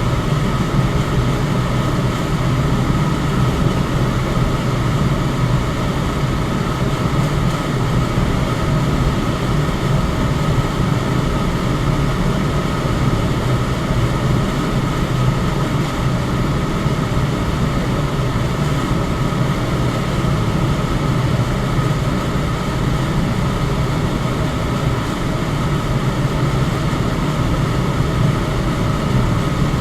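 Electric fan running steadily: an even, deep rush of moving air that doesn't change.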